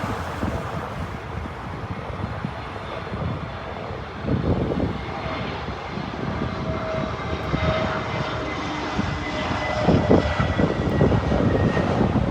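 Jet engines of a four-engined Boeing 747 on landing approach: a steady rumble with a thin whine over it, growing louder near the end.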